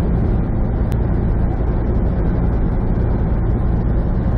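Steady drone of a semi truck's diesel engine and road noise heard from inside the cab at highway speed, with a single faint click about a second in.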